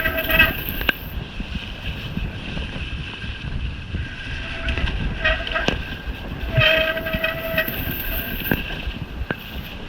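Mountain bike disc brakes squealing in two held squeals, a short one at the start and a longer one of about a second around seven seconds in, over rushing wind and tyre noise, with a few sharp knocks. The squeal comes from brake pads the rider finds knackered, the pad spring seemingly rubbing on the pad.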